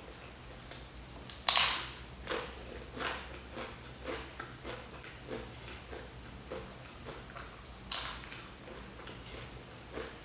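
Two sharp crunches of biting into crisp potato chips, about a second and a half in and again near the end. Each is followed by close-up chewing at a little under two chews a second.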